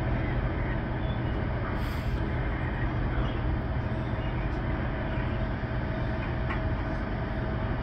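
A freight train of loaded hopper wagons rolls along the track: a steady rumble, with a thin, steady whine above it.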